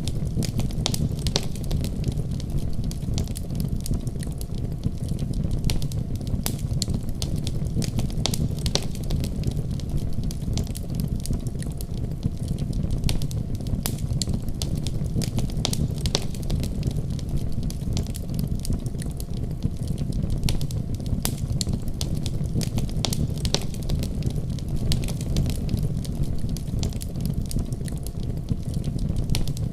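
Fire burning in a fireplace, crackling with frequent small irregular pops over a steady low rumble.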